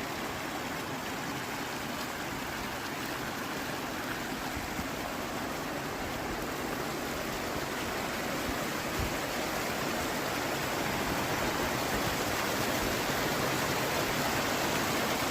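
Mountain river water flowing: a steady rushing that grows a little louder near the end.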